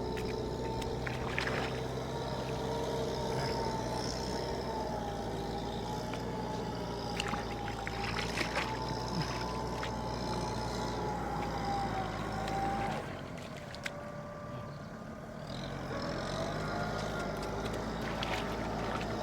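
Tractor engine running steadily. Its low drone drops away for a couple of seconds about two-thirds of the way through, then comes back. A few short sharp sounds stand out above it near the start and around the middle.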